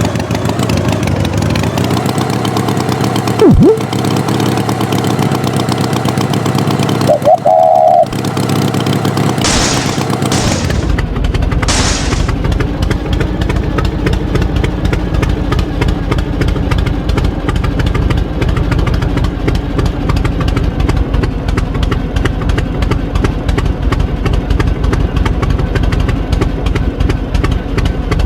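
Tractor engine running steadily. There is a short falling squeal about three and a half seconds in and a brief high tone near eight seconds. Two bursts of hiss follow around ten and twelve seconds, after which the engine chugs with an even, rapid pulse.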